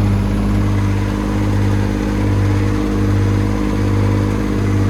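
Massey Ferguson 135 tractor's diesel engine running steadily under load, with the PTO-driven feed wagon working behind it.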